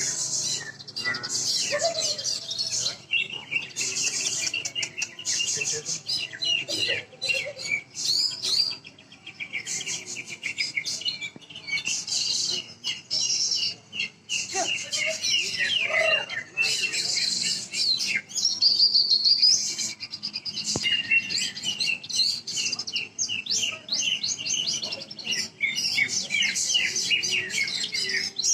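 Caged greater green leafbirds (cucak ijo) and other contest songbirds singing continuously, a dense run of overlapping chirps, trills and fast warbles.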